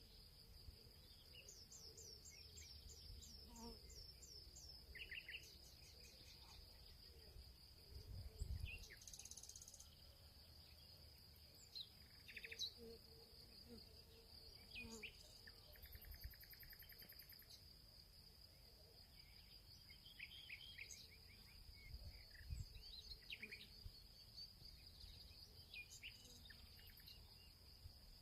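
Faint field ambience: insects, like crickets, keep up a steady high drone while birds chirp on and off, including a rapid run of repeated notes a couple of seconds in. Two brief low rumbles come about a third of the way through and again near the end.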